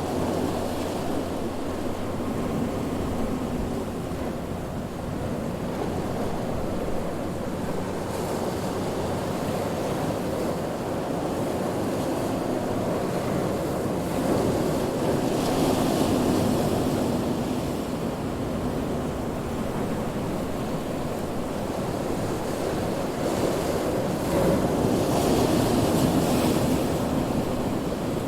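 Ocean waves breaking as surf: a continuous wash that swells louder twice, about halfway through and again near the end.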